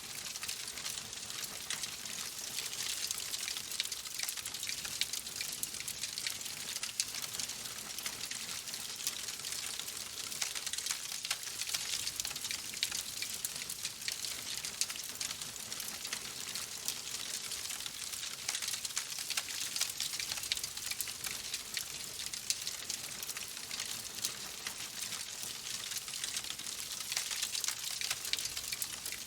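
Fire crackling steadily in a fireplace: a dense, continuous run of small pops and snaps over a soft hiss.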